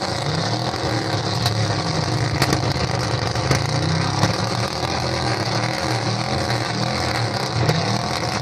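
A flame-throwing car's engine revving up and down hard while it shoots flames from its exhaust, with a few sharp pops.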